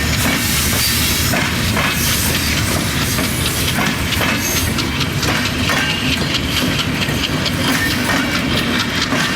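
Passenger train running on the track: a steady loud rushing noise with many quick clicks of the wheels over the rails.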